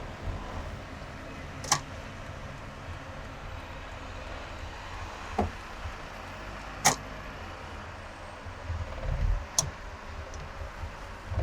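Car driving on a highway, heard from inside the cabin: a steady low road and engine rumble, with three sharp clicks and a few low bumps spread through.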